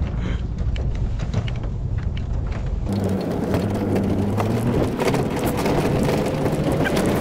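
A vehicle running, with a steady low hum under a noise of wind or tyres. The sound changes abruptly about three seconds in.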